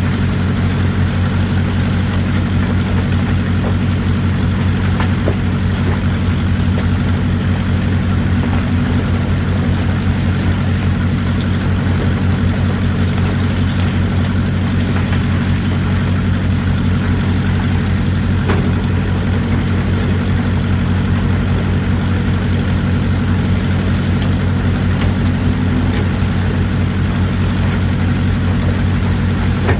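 Excavator's diesel engine running at a steady, even speed, with a steady hiss of running water over it and a few faint knocks.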